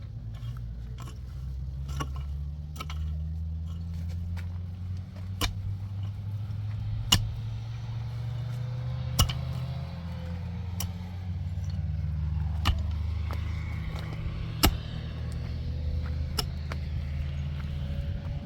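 Motor vehicle running with a low, steady rumble, with sharp clicks and knocks scattered through it every second or two.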